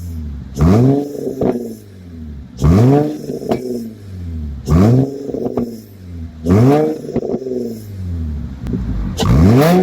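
Infiniti G35's 3.5-litre V6 blipped from idle five times, about every two seconds, each rev rising sharply and falling straight back. It is heard through a Borla Pro XS exhaust with a Tanabe resonator, its catalytic converters cut off.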